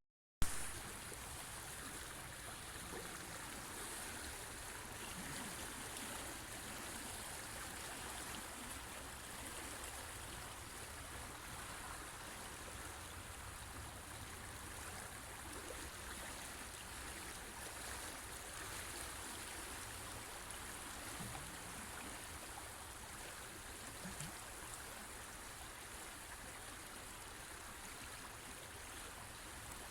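River water flowing steadily over rocks, an even rushing and trickling. Just after the start the sound cuts out for a split second and comes back with a sharp click.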